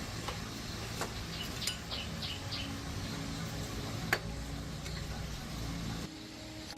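A few sharp clicks over a steady low hum, with a short run of high chirps about two seconds in.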